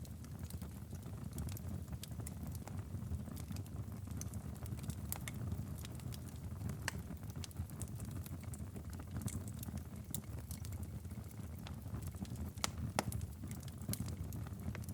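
Wood fire crackling and popping in a fireplace: scattered irregular snaps over a steady low rumble, with one louder pop near the end.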